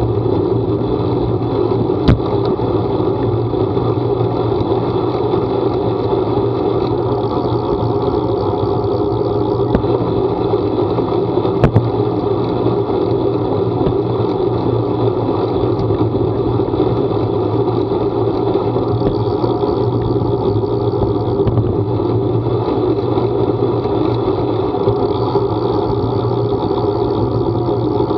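Steady running noise of a vehicle on the move, even throughout, with a few sharp clicks about two, ten and twelve seconds in.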